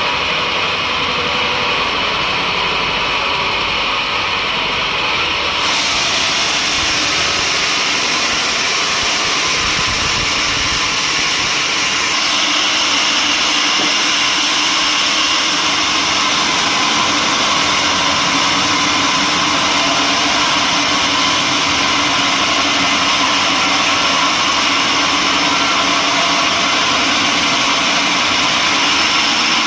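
Sawmill machinery running steadily, a loud, continuous mechanical drone with a hiss. About six seconds in it turns brighter and harsher and stays that way.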